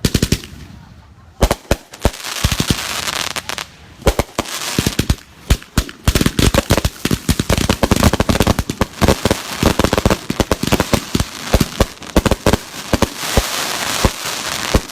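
Consumer firework cakes firing in a dense barrage: rapid sharp bangs over continuous crackling, thickening after the first few seconds into a near-unbroken string of reports, typical of several cakes going off at once for a finale.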